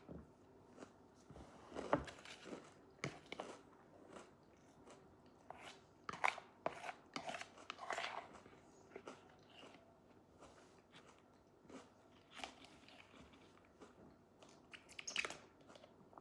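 A person chewing and biting food close to the microphone, with irregular short crunches.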